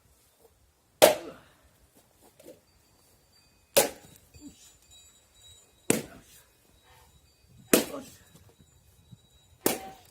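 Axe splitting firewood by hand: five sharp strikes about two seconds apart, each with a short ring after the blow.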